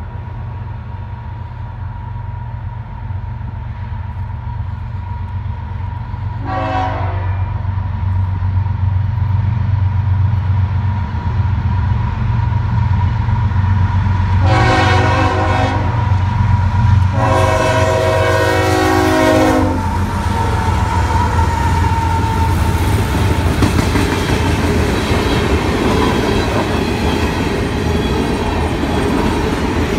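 Norfolk Southern freight train's diesel locomotive approaching with a steady low rumble that grows louder, sounding its horn three times: a short blast about six seconds in, then two longer ones, the last the longest. From about twenty seconds in the train runs past with a steady rush of wheels on rail.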